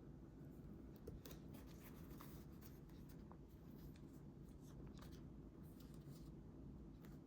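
Faint scratches and light clicks of paper being worked by hand during scrapbooking, scattered irregularly over a low steady room hum.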